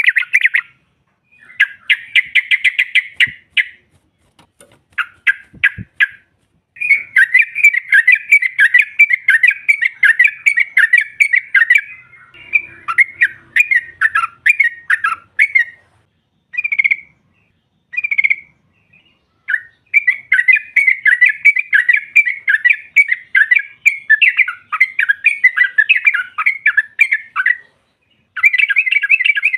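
Yellow-vented bulbul (trucuk) calling in fast, chattering runs of many short notes. The runs come in phrases a few seconds long with brief pauses between them.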